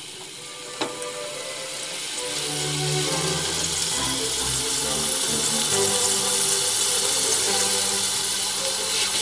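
Hamburger patty sizzling in hot fat in a frying pan, a steady hiss that builds over the first few seconds and then holds; a single click about a second in. Background music plays underneath.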